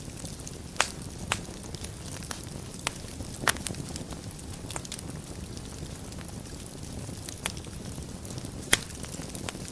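Wood fire burning in a fireplace: a steady low rush of flames with sharp, irregular crackles and pops from the burning logs, a few of them louder, the loudest near the end.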